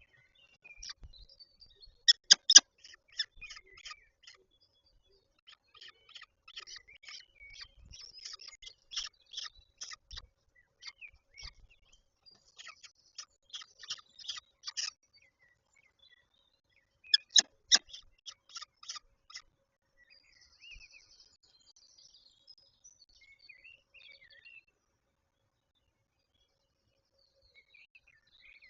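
Peregrine falcon calling in bouts of short, rapid, high-pitched notes, several a second, pausing briefly in the middle, with only scattered quieter chirps in the last third.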